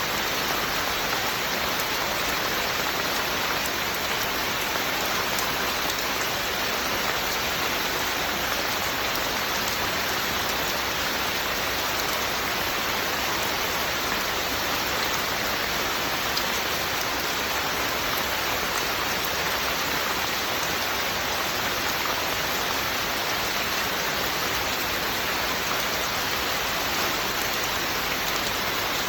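Steady, unbroken rain falling, an even hiss of drops with no separate events.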